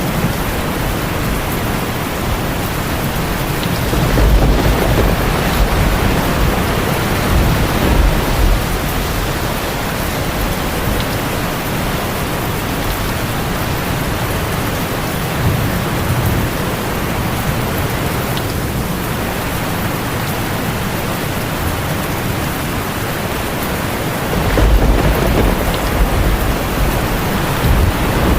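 Heavy rain drumming steadily on a tin roof, with low rolls of thunder swelling several times, the longest near the end.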